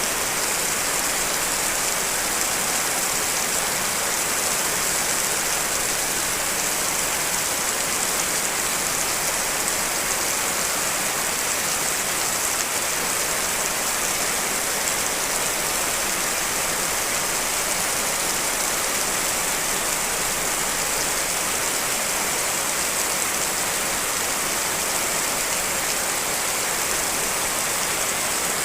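Steady rain, a dense even hiss of falling drops with no single drops or gusts standing out.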